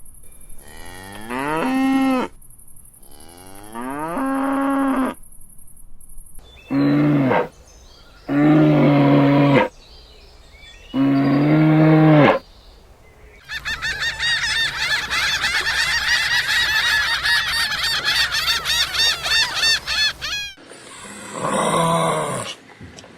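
Cattle mooing, several long separate calls in a row. Then a flock of domestic waterfowl calling over one another in a dense, rapid honking chorus for several seconds, and one more single call near the end.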